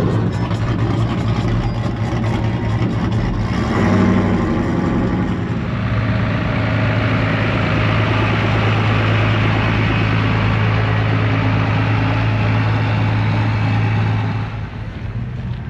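Truck engine running with a steady low drone, dropping off about a second before the end.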